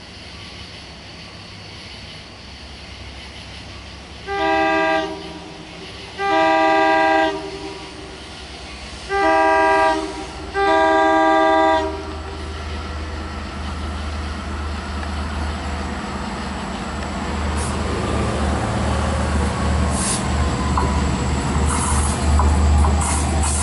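Long Island Rail Road diesel train's multi-tone air horn sounding four blasts, the second and fourth longer than the others. Then the diesel engine's low rumble grows steadily louder as the train approaches.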